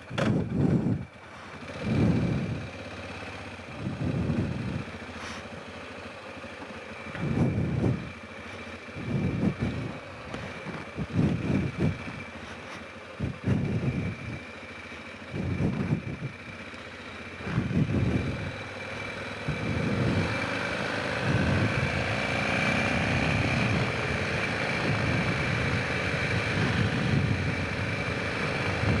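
Honda Rincon 650 ATV's single-cylinder engine taking short bursts of throttle, about every two seconds, for the first two-thirds or so. It then runs steadily under throttle to the end.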